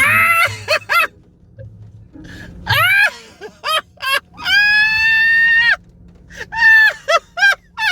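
A person screaming in very high-pitched shrieks: a few short cries, one long held shriek of about a second in the middle, then a quick run of short shrieks near the end.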